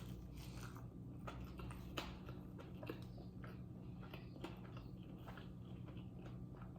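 A person chewing food close to the microphone, with scattered small mouth clicks, over a faint steady hum.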